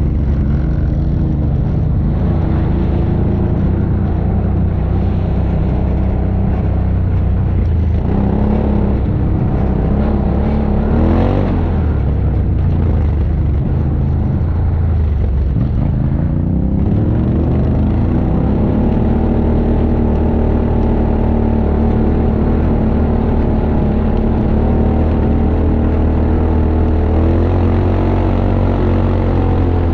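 ATV engine running steadily under way, its pitch rising and falling as the throttle is opened and eased, about eight to twelve seconds in and again climbing at about sixteen seconds.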